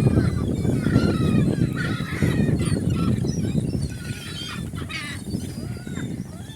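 A flock of gulls calling, many short cries overlapping, over a steady low rushing noise; the calling thins out and gets quieter about four seconds in.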